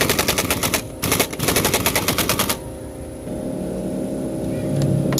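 Impact wrench hammering in two rapid rattling bursts as it undoes the 14mm nut on the scooter's engine support bolt, stopping about two and a half seconds in. A steady low hum follows and slowly grows louder.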